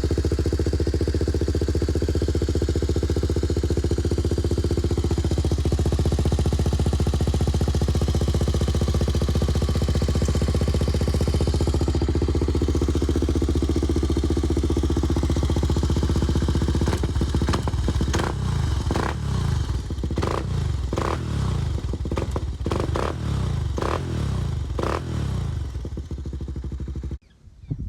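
Honda ATC 350X single-cylinder four-stroke engine, breathing through a 400EX head pipe, a custom mid pipe and a Big Gun Eco silencer, idling steadily. From about two-thirds of the way in it is blipped through a quick series of throttle revs, each dropping back to idle, and it is shut off just before the end.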